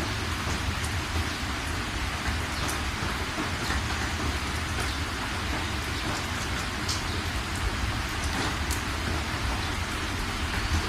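Steady heavy rain, with scattered individual drops splashing sharply over a continuous hiss and a low rumble underneath.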